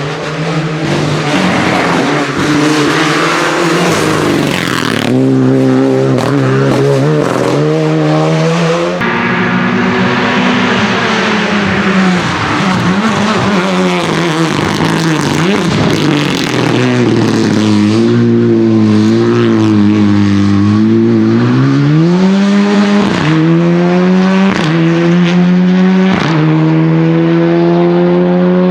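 Renault Clio Rally4 rally car engine at full throttle: the engine note climbs and drops as the car accelerates, brakes and passes, with a series of quick upshifts near the end.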